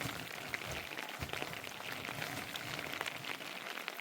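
Rain falling steadily, a constant hiss dotted with many small drop ticks.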